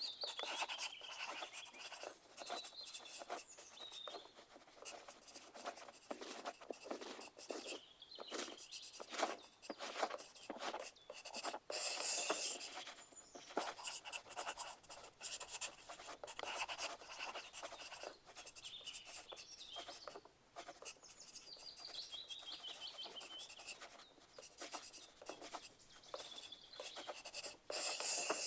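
Pencils writing on paper: a steady, irregular run of short scratching strokes, as in a quiet exam hall.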